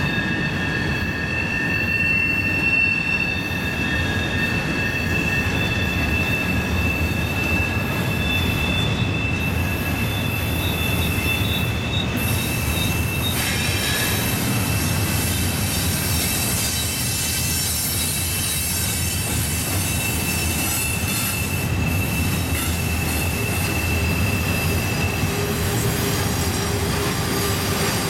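Double-stack intermodal freight train rolling past: a steady rumble of steel wheels on rail with a high-pitched squeal of several steady tones from wheel flanges grinding on the tight curve. The squeal tones shift about halfway through and fade near the end.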